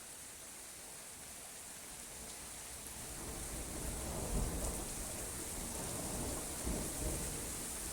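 Steady rain with a roll of thunder that builds about three seconds in and rumbles on, swelling louder twice.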